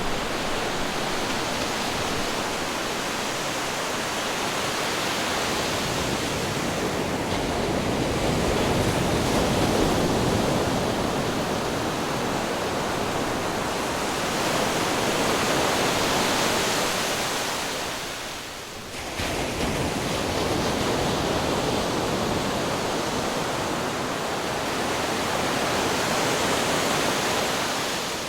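Ocean waves crashing on rocks: a continuous wash of surf that swells and ebbs, with a brief lull about two-thirds of the way through.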